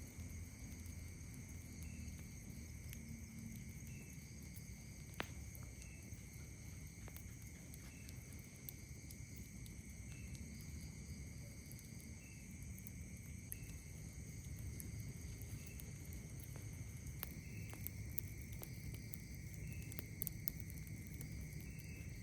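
Night insects trilling steadily at several high pitches, with a short chirp repeating about every two seconds. Scattered sharp pops from a crackling wood campfire sit over a low steady rumble.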